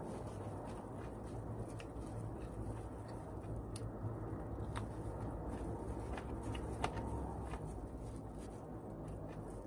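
Eating adobo chicken feet: chewing and biting with scattered small clicks, the sharpest about seven seconds in, over a steady low hum.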